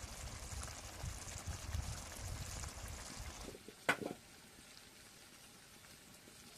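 Liquid noise, like water pouring or splashing, that stops abruptly about three and a half seconds in. It is followed by a single short sharp knock, then a faint hiss.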